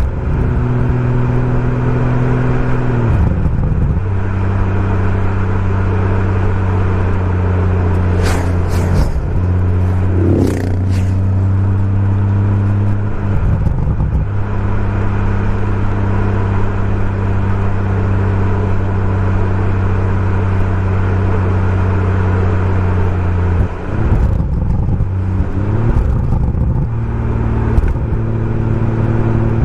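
BMW M140i's turbocharged 3.0-litre straight-six under way through a Remus aftermarket exhaust, holding a steady engine note for long stretches. The revs drop a few seconds in, then change again around ten seconds in and near twenty-five seconds, with a few sharp cracks around the ten-second mark.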